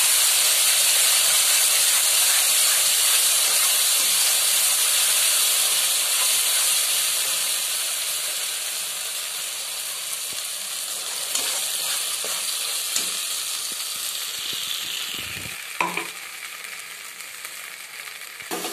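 A coconut and nut paste sizzling loudly as it hits hot mustard oil in a steel kadai. The sizzle fades slowly as it fries, and in the second half a steel spatula clicks and scrapes against the pan a few times.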